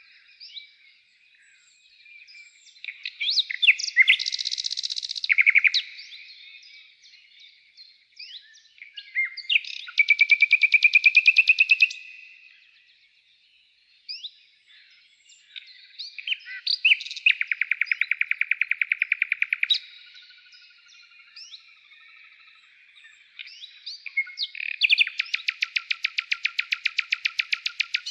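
Songbird singing: loud phrases of rapid trills, each two to three seconds long, come about every seven seconds, with short chirps and quick whistled notes in between.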